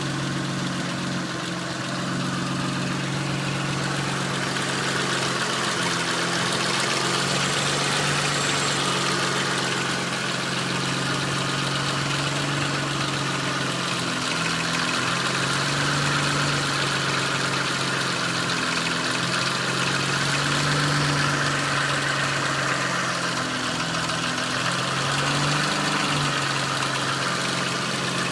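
Mitsubishi 3000GT's 3.0-litre V6 idling steadily, carrying the noise that appeared after a part was rebuilt.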